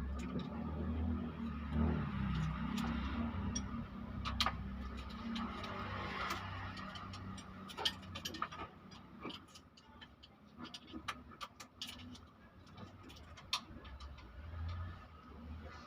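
Scattered sharp metallic clicks and clinks of hand tools on engine parts, irregular and unevenly spaced, over a low steady hum.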